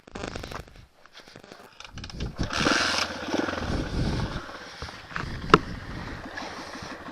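Nitro Sky 125cc pitbike engine running while being ridden. There is a short drop-out about a second in and a single sharp click about five and a half seconds in.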